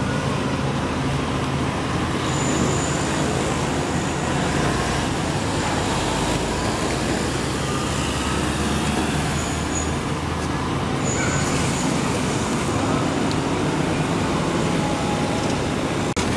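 Volvo B9R coach's six-cylinder diesel engine running steadily on the road, with a constant hum of engine and road noise.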